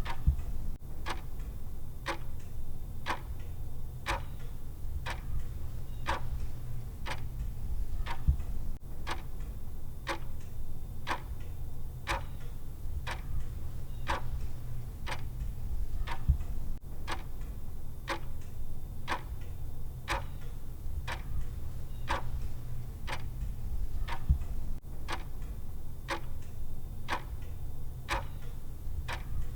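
Clock-style tick sound of a countdown timer, ticking steadily at an even pace over a constant low hum.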